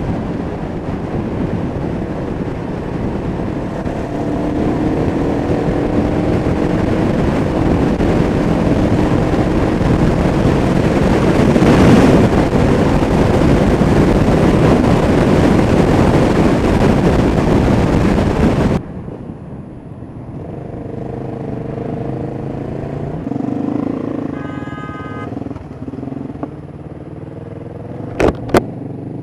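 Kawasaki EN500 Vulcan parallel-twin engine running under way, its pitch climbing, under heavy wind rush on the microphone. About two-thirds through, the wind noise drops away suddenly and the engine is heard plainly at a lower level, with a short whine and then two sharp clicks near the end.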